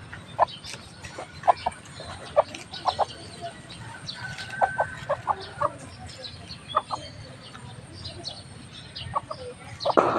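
Chickens clucking: short calls repeated at irregular intervals, with one longer drawn-out call about halfway through and a louder call near the end.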